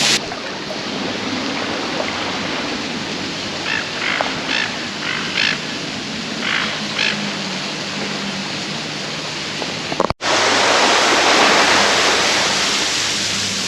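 Steady rush of running water, with several short animal calls partway through. The sound drops out for an instant about ten seconds in and comes back louder.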